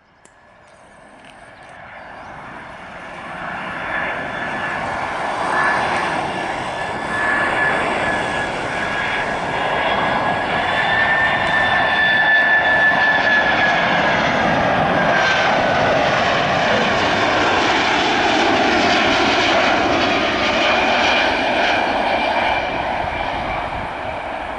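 Boeing 767-300F freighter's jet engines coming in to land, the noise building over the first few seconds to a loud steady level and easing near the end. A high whine runs through it and drops slightly in pitch about halfway through as the aircraft passes.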